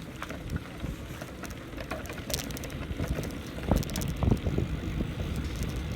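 A bicycle riding along a trail: low rumble of the tyres with scattered rattles and knocks from the bike, and wind buffeting the microphone.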